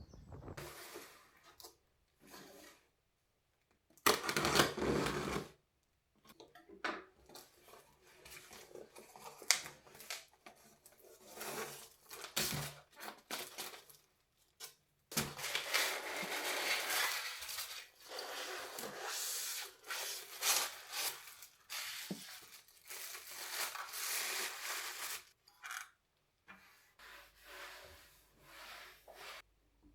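Unboxing and assembling a mushroom desk lamp by hand: cardboard and plastic packaging rustling and tearing, with small clinks and knocks of the lamp parts. It comes in irregular bursts with short pauses. The loudest burst is a few seconds in, and there is a long stretch of steady rustling in the middle.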